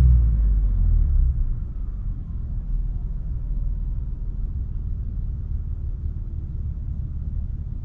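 2019 Ford F-150's 3.5L EcoBoost twin-turbo V6 dropping back from a rev over the first second or so, then idling with a steady low rumble.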